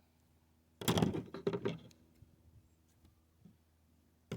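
A brief cluster of knocks and scraping noise about a second in, with another short knock near the end, over quiet room tone.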